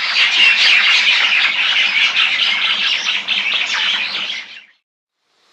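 Common myna calling: a dense, unbroken run of chattering calls that stops suddenly near the end.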